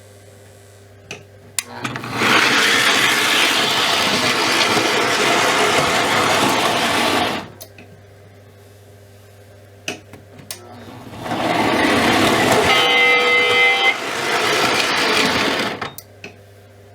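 Custom Trains FM Trainmaster model diesel locomotive running on track in two passes of loud motor and wheel whirring, with a few clicks between them. A short horn blast sounds during the second pass.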